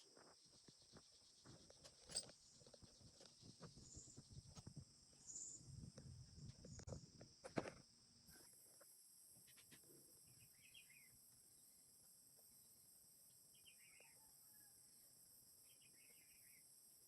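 Faint handling noise: soft clicks and rustles for the first several seconds, with two sharper clicks, then near silence broken by a few short, faint high chirps.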